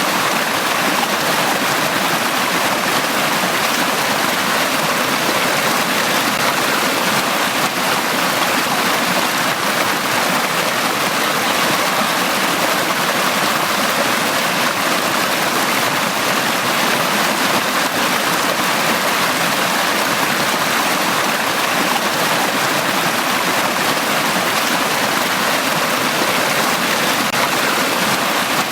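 Valley stream water flowing, a steady, unbroken rush.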